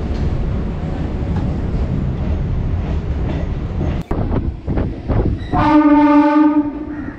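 Suburban electric train running, with a steady rumble and clatter from the wheels on the track. A bit over five seconds in, a train horn sounds once for about a second.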